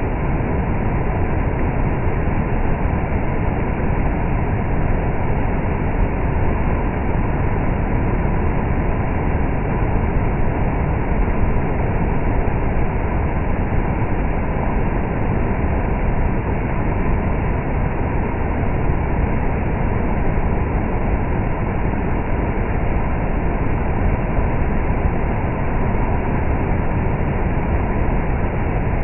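Heavy rain pouring down steadily, an even unbroken noise.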